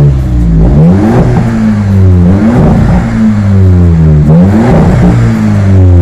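Audi A3 engine revved through an aftermarket straight-through (flow-through) exhaust resonator of 409 stainless steel: three quick throttle blips, each pitch rising sharply and then falling slowly back.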